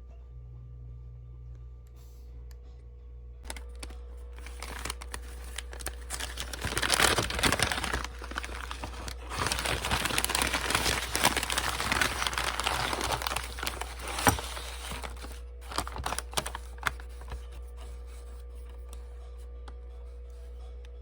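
Packaging being handled and torn open by hand: a dense crinkling and crackling that starts a few seconds in, grows loud, then thins to a few scattered clicks and stops, over a steady low hum.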